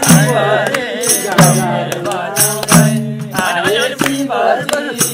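Voices singing a Nepali devotional folk song to sharp, regular percussion strokes over a steady low sustained tone.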